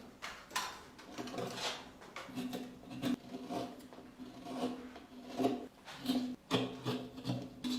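Hand rasp or file scraping on wood in a string of short strokes, about one a second, as a wooden piece is shaped.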